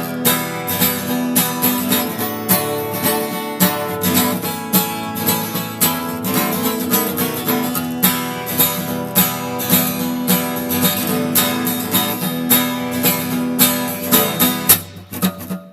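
Instrumental break of a folk song: acoustic guitar strummed in a steady rhythm, the playing thinning out briefly near the end.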